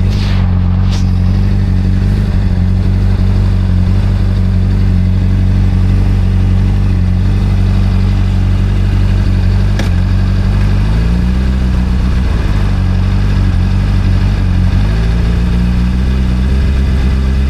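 Motorcycle engine running steadily at low revs. Its pitch drops slightly about eleven seconds in and comes back up near the end. A few short clicks sound over it near the start and about ten seconds in.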